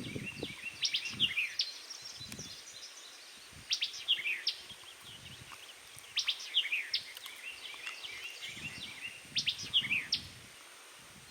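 A songbird singing short phrases of quick, sweeping high notes, repeated every two to three seconds, with a few soft low bumps and rustles in between.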